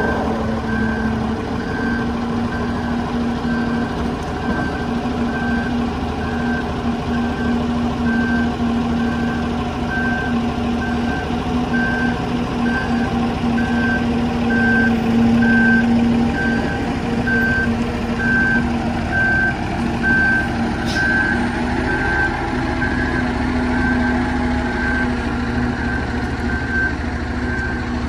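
A vehicle's reversing alarm beeping steadily, about once a second, over the steady hum of its running engine.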